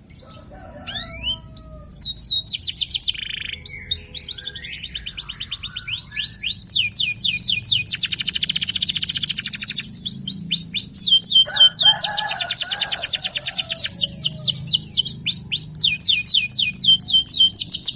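Local canary singing a long, fast rolling song: rapid trills of repeated sweeping notes. They come in scattered phrases at first, then run together into a dense, continuous roll from about a third of the way in.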